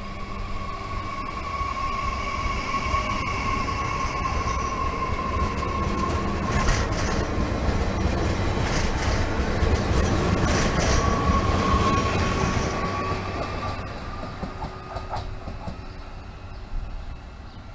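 An SNCF Bombardier AGC regional multiple unit passing close by. Its running noise carries a steady high whine, with a run of wheel clicks over the rail joints as it goes by. The sound is loudest in the middle and fades as the train moves off.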